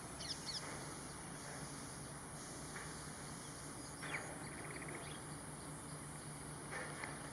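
Wild birds calling in open grassland: a few short high chirps, a falling call followed by a quick trill about four seconds in, and more chirps near the end, over a steady high-pitched hiss.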